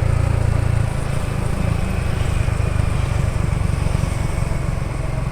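Yamaha XSR155's single-cylinder 155 cc engine running, its exhaust giving a steady low pulsing beat that eases slightly and turns less even about a second in.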